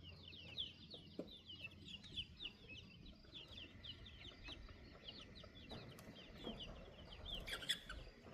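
Baby chicks peeping continuously: a constant stream of short, high, falling chirps, several a second, with a louder flurry near the end.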